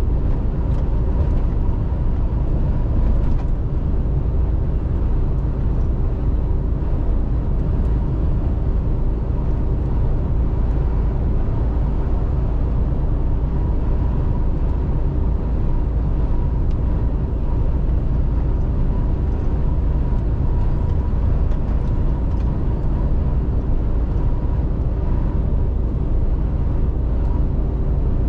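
Mercedes-Benz Actros truck driving at a steady speed: a constant low engine and road drone with a faint steady whine running through it.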